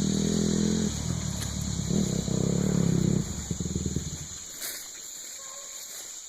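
Small off-road vehicle engine running and revving up twice, then fading out about four seconds in. A steady high buzz of insects underneath.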